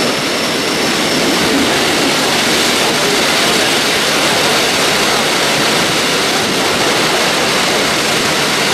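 Steady, loud rushing noise of a moving train, wind and running noise blended into an even roar with no distinct beats.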